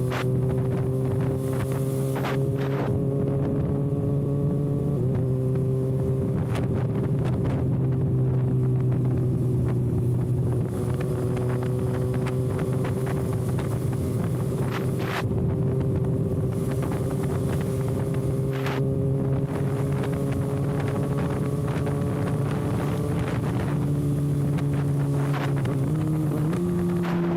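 Kawasaki ZX-6R inline-four engine running with its exhaust canister removed, held at a nearly constant engine speed while riding, with wind buffeting the microphone. The engine note steps up slightly near the end.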